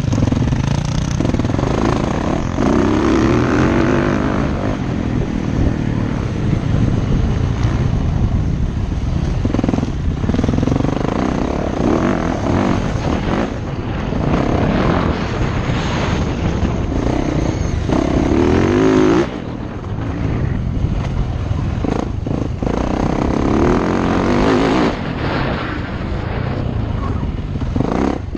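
Motocross dirt bike engine running hard at close range, revving up and easing off again and again as it is ridden around the track. The throttle is chopped sharply about two-thirds of the way through and again near the end.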